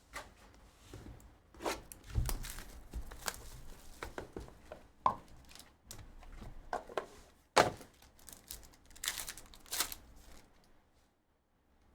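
Trading-card packs and box packaging being torn open and handled: irregular rips, crinkles and taps. The loudest comes a little past halfway, and a few more follow close together near the end.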